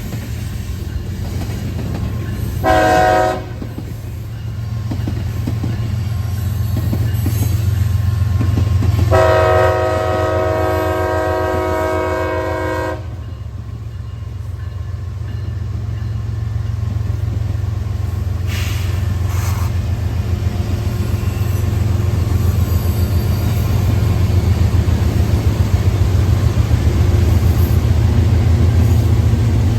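CSX freight train rumbling past with a steady rhythmic clatter of wheels over the rails. Its horn sounds a short blast about three seconds in, then a long blast of about four seconds from about nine seconds in.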